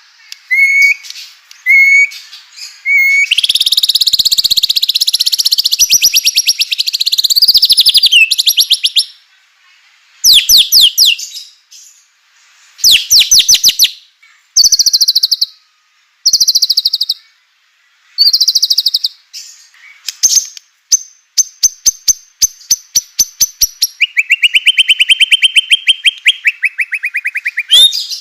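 White-rumped shama (murai batu) singing a fast, varied song: a few short whistled notes, then a long rapid rattling trill and a string of short rattling bursts, ending in a lower buzzy trill. These rattling 'kretekan' phrases are the agitated song used to provoke other shamas into singing.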